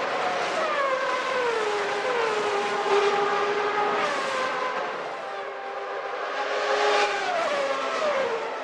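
1991 Formula One car engine at high revs, its pitch dropping in several quick steps as it downshifts, then holding steady for a few seconds before stepping down again near the end.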